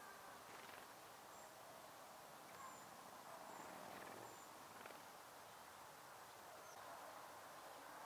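Near silence: faint outdoor ambience with a few very faint, short high-pitched chirps from distant small birds.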